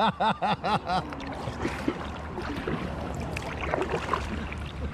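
Brief laughter at the start, then a kayak paddle dipping and splashing in the water, with small irregular drips and splashes over a low rumble of wind on the microphone.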